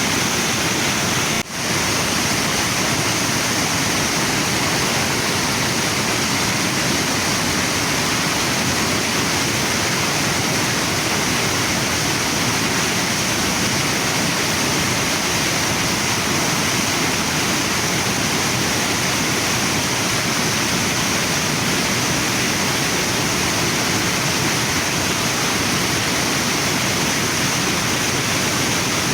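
Waterfall and river water rushing steadily: a constant, dense hiss. There is a brief dip in level about a second and a half in.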